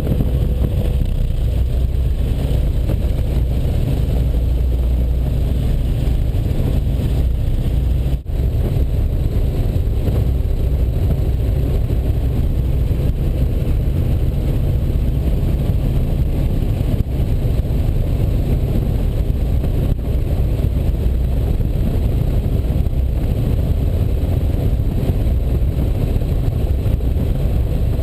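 Robinson R44 Raven helicopter's six-cylinder piston engine and rotors running steadily, a deep, even drone heard from inside the cabin. About eight seconds in, the sound briefly dips.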